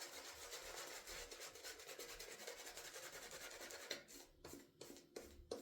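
Mühle 23 mm silvertip fibre shaving brush painting still-foamy Mitchell's Wool Fat lather onto a stubbled face: a faint, rapid bristly rubbing. About four seconds in it thins to a few separate strokes.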